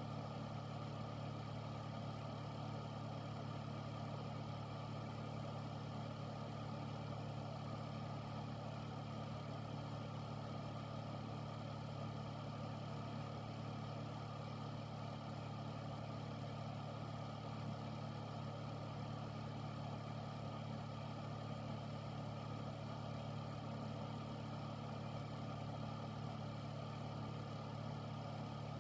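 Air filter (air purifier) running steadily: an even fan hum with a low drone and airy hiss, unchanging throughout.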